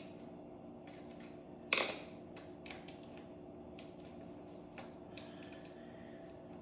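Metal tools and parts clinking and tapping as they are handled, with one louder clank about two seconds in, over a steady hum.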